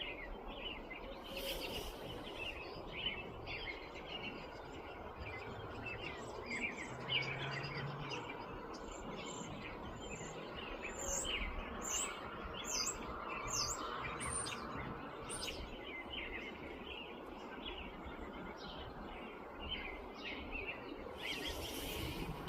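Birds chirping: many short high calls throughout, with a run of quick downward-sweeping notes in the middle, over a steady background hiss.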